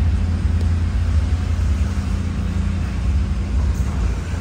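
SUV engine running steadily at low speed while it tows a loaded car trailer, a continuous low rumble.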